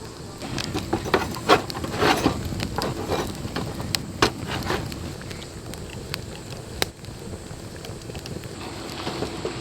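Wood campfire crackling, with sharp pops scattered through it, busier in the first half and again near the end.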